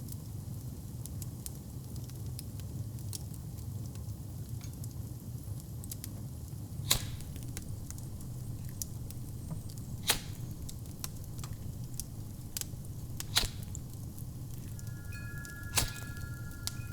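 Wood fire crackling in a fireplace: a steady low rumble of the flames with fine crackle and four louder pops spaced a few seconds apart. Near the end a faint, steady two-note ringing tone comes in.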